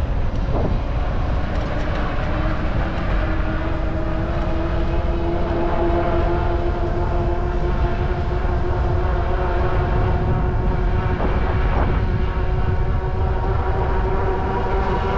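Wind rushing over the microphone of an action camera on a moving bike, with a steady hum that rises slightly in pitch.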